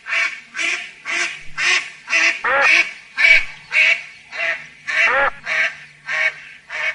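A duck quacking over and over in a steady rhythm, about two quacks a second, a dozen or so in all.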